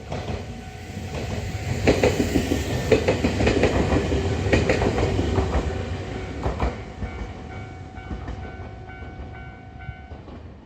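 Nankai Kada Line local train passing over a level crossing, its wheels clacking over the rail joints, loudest from about two to six seconds in. The crossing's electronic warning bell keeps ringing over the train and stops about ten seconds in.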